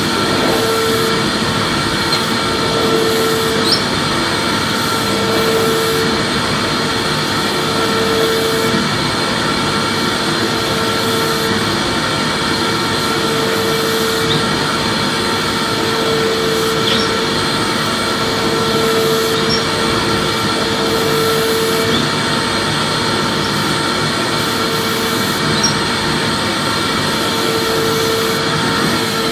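Vacuum cleaner running steadily with a dense rushing hiss and a constant whine, and a lower hum that swells and fades every second or two.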